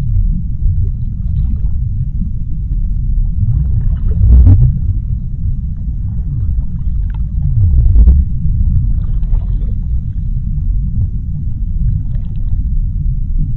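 Underwater sea-floor ambience: a steady deep rumble with faint crackling above it, swelling louder twice, at about four and a half and eight seconds in.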